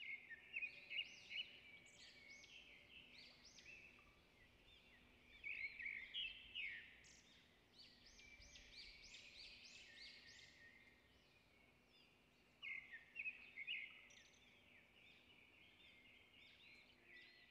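Faint chorus of small birds chirping: a busy run of short, quick chirps, louder in clusters near the start, about six seconds in and again about thirteen seconds in.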